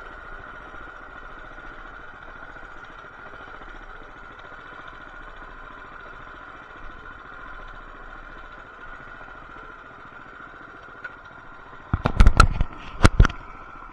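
Coleman BT200X mini bike's small single-cylinder four-stroke engine running steadily. Near the end come a few loud, sharp knocks.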